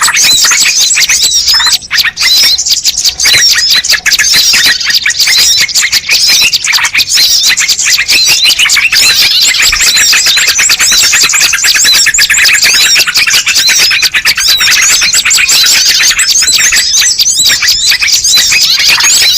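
Dense, unbroken chorus of many small birds chirping over one another in quick, high-pitched calls: a bird-lure (pikat) recording used to draw in wild birds.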